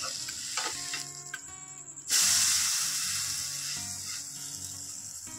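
Besan-and-curd-coated bread frying in shallow hot oil in a nonstick pan: a steady sizzle that jumps to a loud hiss about two seconds in as the slice is flipped onto its raw side, then slowly dies down.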